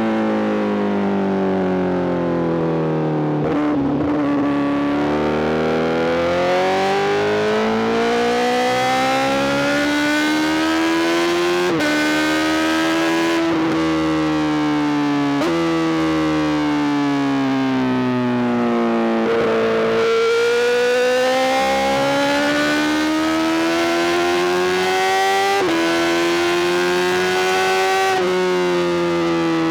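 Honda CBR1000RR-R SP's inline-four engine through an Arrow GP full exhaust, under way. It climbs through the revs, drops sharply in pitch at quick upshifts about 12 and 26 seconds in, and between pulls eases off with the pitch sinking slowly.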